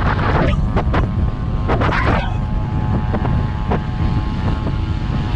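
Tractor engine running steadily under load as a low, continuous rumble, with a steady droning tone from about two seconds in. Wind buffets the microphone near the start and again around two seconds.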